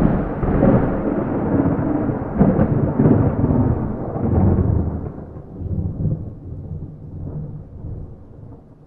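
A thunder clap rolling into a long, low rumble, with several louder surges in the first few seconds before it slowly fades away.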